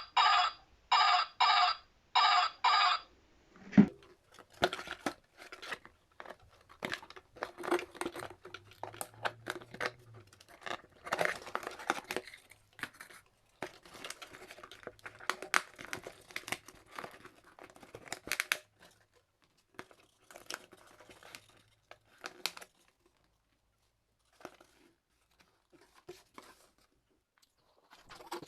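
A toy's electronic sound in short, evenly repeated bursts for the first three seconds. It gives way to plastic packaging being handled, with crinkling, tearing and sharp clicks, thinning out to a few faint clicks near the end.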